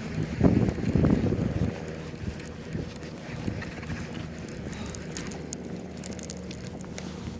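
Wind buffeting the camera microphone on a kayak at sea, with loud gusts in the first second or two and then a steadier rush over a faint steady hum.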